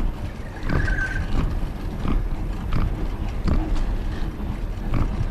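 Wind buffeting the camera microphone on a moving bicycle, a steady low rumble, with irregular knocks and rattles from the ride and a brief high chirp about a second in.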